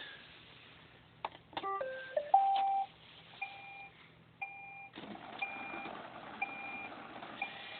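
iRobot Roomba powering up: a couple of clicks, then a short electronic tune of notes at changing pitches, followed by a short steady beep about once a second. A steady whir of its motors comes in about five seconds in.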